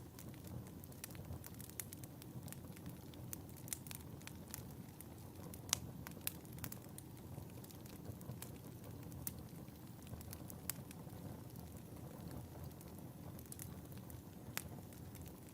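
Wood fire crackling in a fireplace: irregular sharp pops and snaps over a low, steady rumble of the flames. A couple of louder pops come a little before halfway, and another near the end.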